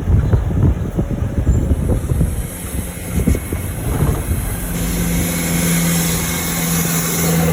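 Wind buffeting the microphone with a gusty low rumble. From a little past halfway a road vehicle's engine comes in with a steady hum, and a hiss grows louder as it comes close.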